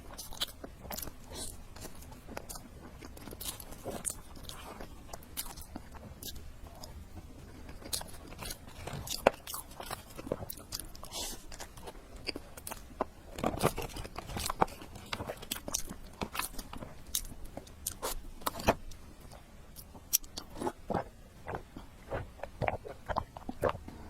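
Close-up eating sounds: a person chewing and biting food, with many quick, irregular clicks from the mouth.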